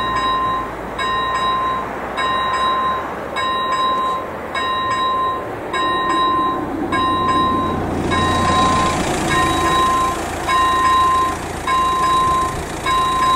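Level-crossing warning bell, an AŽD ZV-01 electronic bell, ringing in evenly repeated dings at a steady pace, with a low rumble underneath.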